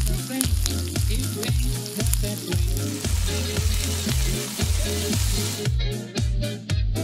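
Breaded lasagne bites frying in hot olive oil in a pan, a steady sizzle, over background music with a steady bass beat. The sizzle cuts off about a second before the end, leaving only the music.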